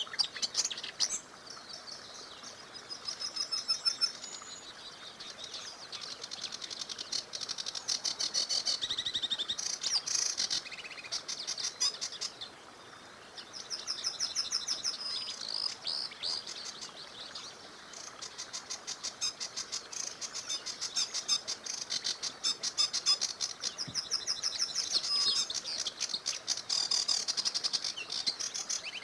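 Several songbirds singing together, with fast repeated chirps and trills overlapping throughout. A faint steady rush of the small river runs beneath them.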